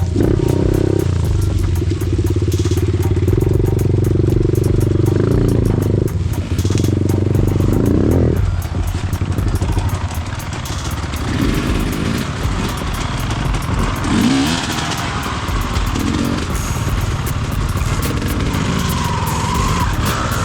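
Small off-road vehicle engine running steadily for about eight seconds, then revving up and down in uneven bursts, its pitch rising and falling.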